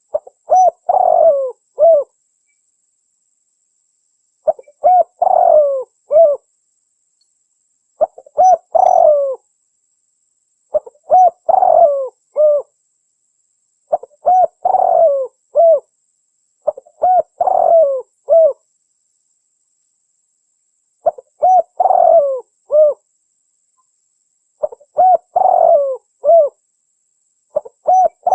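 Spotted dove (tekukur) song, a recording used as a lure to trap wild doves. The same cooing phrase repeats about nine times, every three to four seconds: a few short notes, a longer falling coo, then a short closing coo, with dead silence between phrases.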